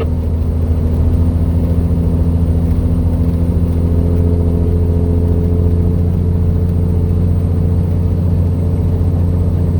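Heavy truck's diesel engine running steadily under way, a constant low drone heard from inside the cab, with a faint extra whine coming in about a third of the way through.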